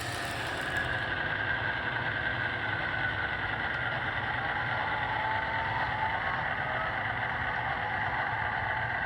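Broadway Limited Imports model diesel locomotive's onboard sound system playing a steady diesel engine sound through its small speaker.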